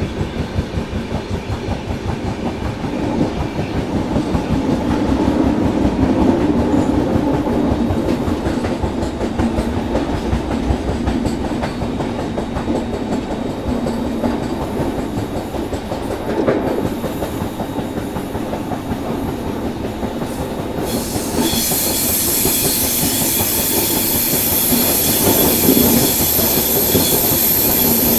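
Passenger train running at speed, heard from the doorway of a moving coach: a steady rapid clatter of wheels over the rails. About three-quarters of the way through, a loud high hiss comes in suddenly.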